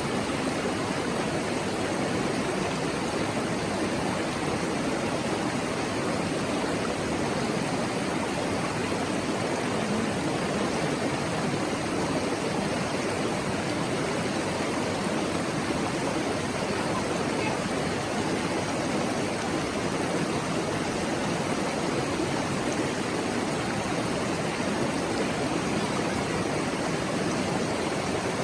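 Shallow mountain stream babbling over its bed, a steady rushing murmur that holds even throughout.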